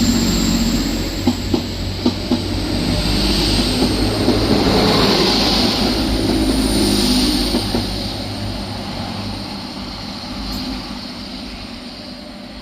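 Two coupled Class 185 Desiro diesel multiple units moving along the line, wheels clicking sharply over rail joints a few times early on. The sound holds steady for several seconds, then fades away over the last few seconds as the train draws off.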